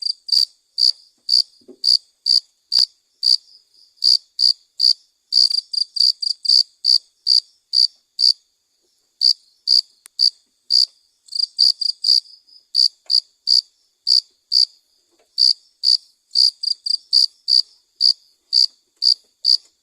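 Cricket chirping: short, sharp, high-pitched chirps repeating about two to three times a second, with brief pauses now and then.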